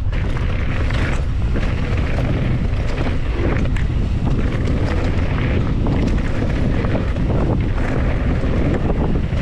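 Wind buffeting the microphone while riding a mountain bike downhill at speed, with tyre noise on the dirt trail and short knocks and rattles from the bike over bumps.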